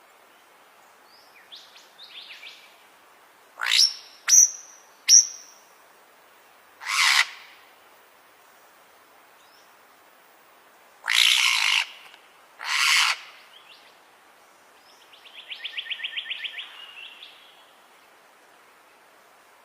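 Bird calling: a few faint chirps, then a run of loud, harsh calls, each about half a second long, and a rapid trill near the end.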